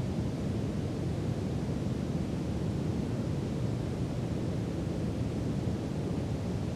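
Steady brown noise: an even, deep rushing hiss weighted toward the low end, without change.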